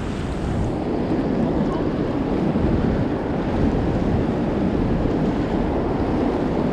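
Steady low rushing noise of strong wind buffeting the microphone, over moving river water.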